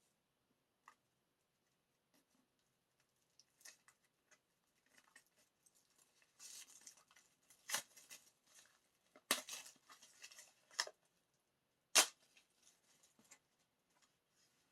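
Paper and plastic album packaging being handled and opened: faint scattered clicks at first, then a few seconds of rustling and crinkling with sharp snaps, and one sharp snap about twelve seconds in, the loudest sound.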